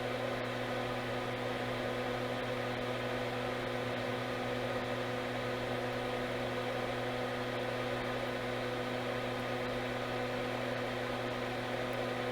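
Steady hum with an even fan-like whir from running bench equipment, holding constant in pitch and level.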